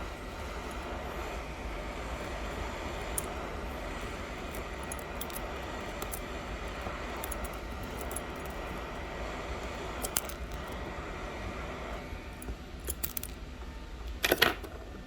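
Hot air rework station blowing a steady hiss of hot air onto the phone's back glass, softening about twelve seconds in. A few small metallic clicks and clinks follow, the loudest cluster near the end.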